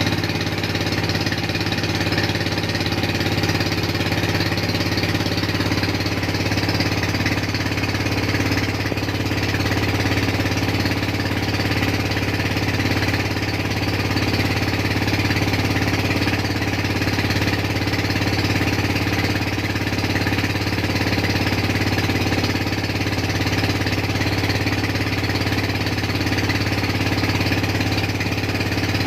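A boat's engine running steadily at constant speed, a loud, even low hum that does not change.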